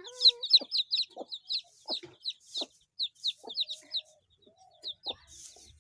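Birds calling: a rapid series of short, high, falling chirps, about three to four a second, thinning out after about four seconds, mixed with a few lower short calls.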